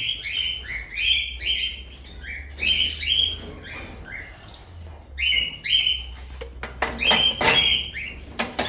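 Aviary parrots calling: repeated short, shrill chirps that rise in pitch, coming in clusters of three or four about every second or two. A few sharp knocks come near the end.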